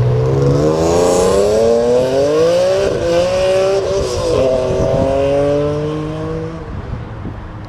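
Car engine accelerating hard as it pulls away, its pitch climbing for about three seconds, dropping at a gear change about four and a half seconds in, then holding steady and fading as the car leaves.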